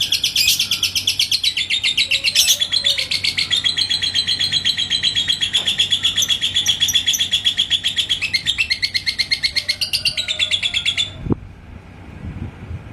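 Yellow lovebird singing its long 'ngekek' chatter: a rapid, unbroken run of high, evenly repeated chirping notes that stops abruptly near the end, followed by a brief low thump.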